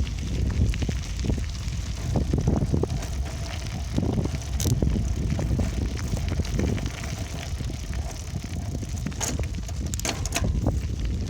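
Riding a bicycle with the camera microphone: a steady low rumble of wind buffeting and tyres on the road, with scattered rattles and a few sharp clicks near the end.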